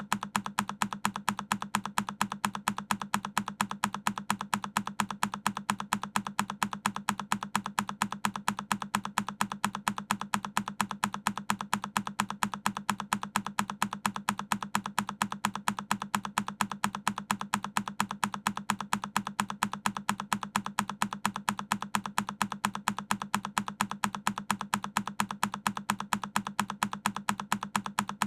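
Single key press on a Keychron K10 mechanical keyboard, looped: the same click repeats at an even pace, roughly three a second, each one identical.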